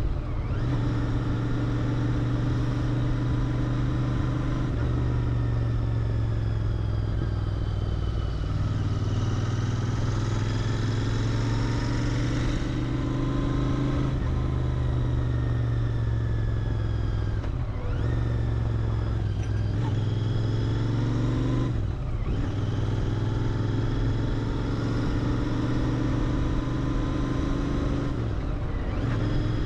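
Royal Enfield Interceptor 650's parallel-twin engine through its stock exhaust, heard while riding: a steady engine note that rises and eases with the throttle. It dips briefly at gear changes about 18 and 22 seconds in and again near the end.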